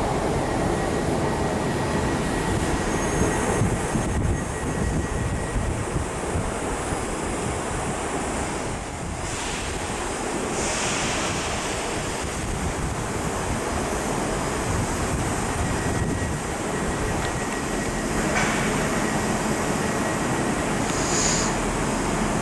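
A train running in a station, a steady rumble and hiss. A low hum sets in about three-quarters of the way through, and there is a brief high whine near the end.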